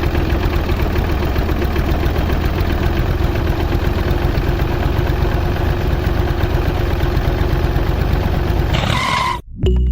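Tractor engine running steadily at idle with a rapid, even putter; it cuts off abruptly just before the end.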